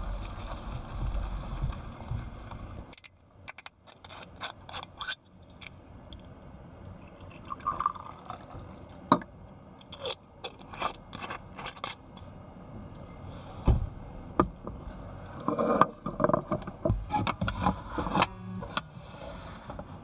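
Things being handled: a series of clicks, knocks and scrapes, with a low rumble in the first three seconds that cuts off suddenly.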